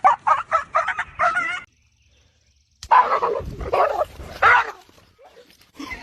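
Dog barking in a quick run of about seven short, high yips. After a second of silence, a longer stretch of barking and whining follows.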